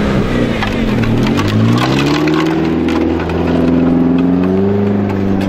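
Off-road race car engine revving: its pitch dips and climbs over the first two seconds, then holds steady with a small rise near the end.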